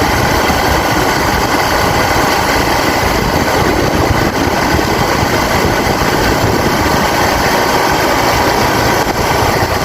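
Motorcycle engine running steadily while riding, with constant road and rushing-air noise.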